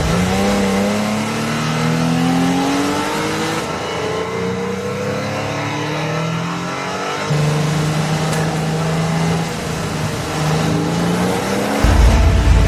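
Nissan Z NISMO's 3.0-litre twin-turbo V6 accelerating hard, its pitch climbing and then stepping as it shifts through the gears.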